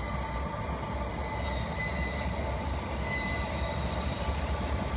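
Norfolk Southern freight train rolling past: a steady rumble of wheels on rail, with a thin, steady, high wheel squeal over it.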